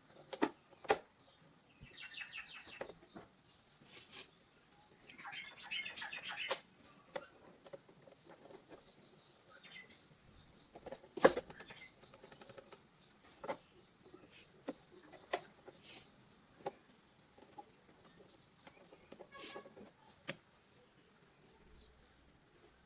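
Scattered sharp clicks and knocks, the loudest about eleven seconds in, with short bursts of bird chirping about two and five seconds in.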